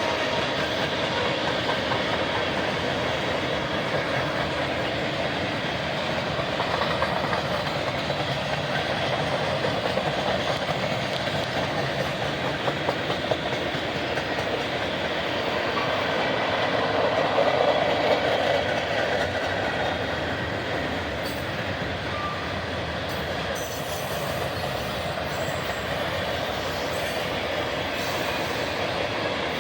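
Norfolk Southern freight train cars rolling past steadily on the rails, with a brief louder swell of rail noise about two-thirds of the way through.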